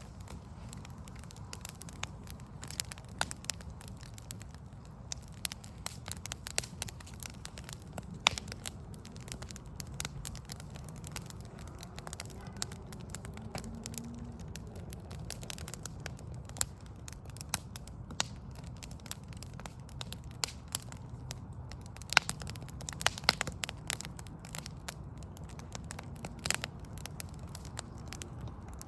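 Backyard wood-log fire crackling, with irregular sharp pops and snaps, some much louder than others, over a steady low rumble.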